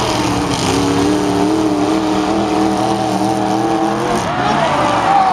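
Demolition derby car engines revving hard. One engine is held at a steady high pitch for about four seconds, then its revs waver near the end.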